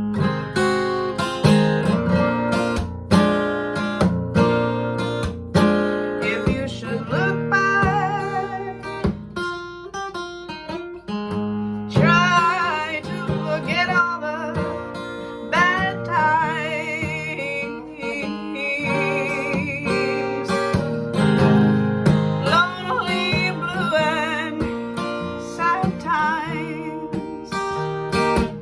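Acoustic guitar playing a song accompaniment in steady strummed and picked chords. From about seven seconds in, a wavering melody line with vibrato rides over it.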